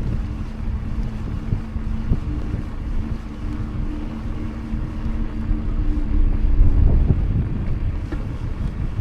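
Wind buffeting the microphone and road rumble from a mountain bike rolling on pavement, with a steady low two-note hum that fades out about seven seconds in. The rumble swells briefly just before the hum stops.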